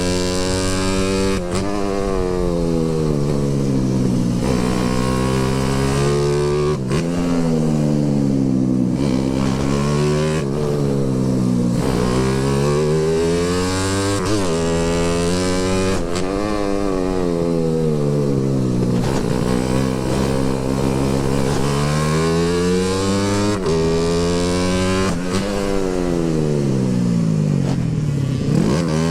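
Motorcycle engine under way, its revs repeatedly dropping and climbing again, with a steady rushing noise over it.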